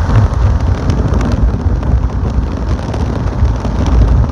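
Large homemade box fan driven by an Emerson AC condenser fan motor running on medium speed, its airflow buffeting the microphone with a loud, gusty low rumble.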